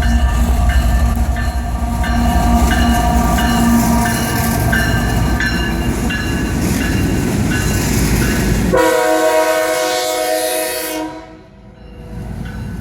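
A CSX diesel locomotive running alone on the line, passing close by with a loud, heavy rumble. About nine seconds in, a strong steady horn-like chord sounds for about two seconds, then the sound fades quickly.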